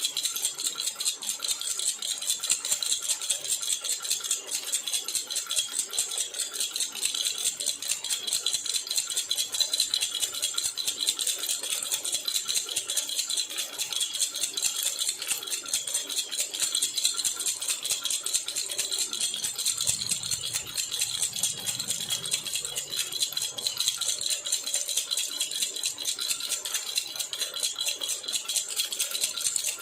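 A silver jhunjhuna baby rattle is shaken steadily and quickly. It gives a dense, bright metallic jingle that does not let up.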